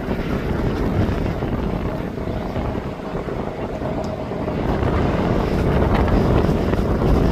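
Wind buffeting the microphone over a steady low rumble, with a faint steady tone about two seconds in.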